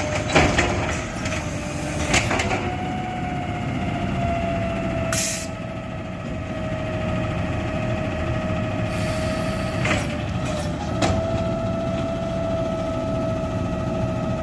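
Garbage truck running with a steady low engine rumble and a steady whine, broken by several sharp clanks and a short hiss about five seconds in.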